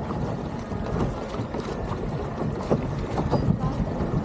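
Wind buffeting the microphone over water splashing around a small boat under way, with a few scattered knocks.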